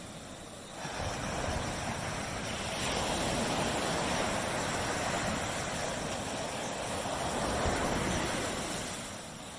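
Surf breaking on a tropical beach: a wave surges in about a second in, washes on steadily, and ebbs away near the end.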